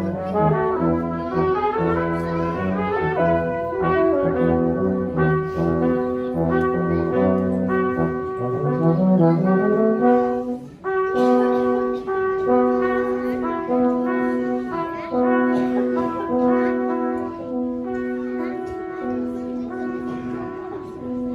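Brass quartet playing. A low bass line runs under the upper parts until about eight seconds in, ends with an upward slide, and the music breaks off briefly. It then goes on with repeated short notes in the middle and upper voices.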